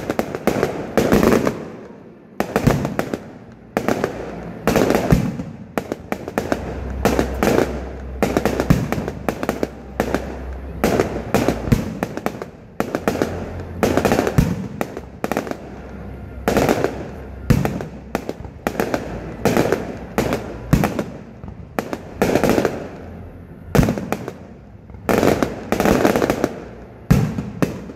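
Aerial fireworks display: shells bursting one after another in a rapid, continuous run of loud bangs.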